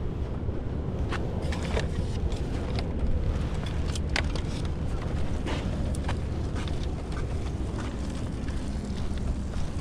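A steady low engine rumble with many scattered clicks, knocks and light rattles.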